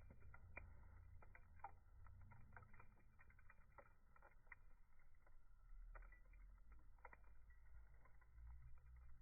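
Campfire crackling: faint, irregular small pops and snaps of burning wood, several a second, over a low steady rumble.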